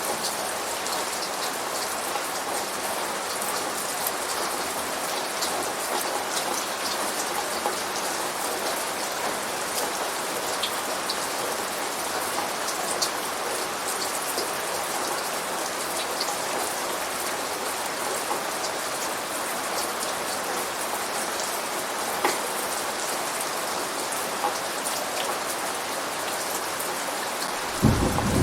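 Steady rain falling, an even hiss with many small drop ticks on surfaces. In the last moment a low thunder rumble begins to swell.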